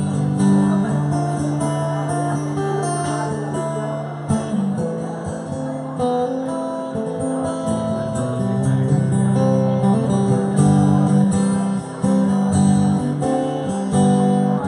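Live music: acoustic guitar strumming an instrumental passage, with no singing.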